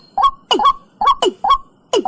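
Watercock calling: a steady run of hollow notes, about five in two seconds, alternating a longer note that drops in pitch with a shorter, higher one.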